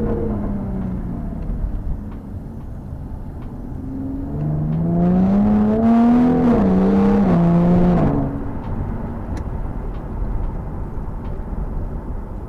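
Jaguar F-Type S's 3.0-litre supercharged V6 being driven. The engine note falls away at first, then rises again from about four seconds in. It drops a step in pitch partway through and dies away about eight seconds in.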